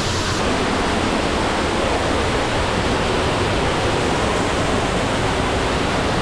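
Steady rush of falling and running water in a cave stream.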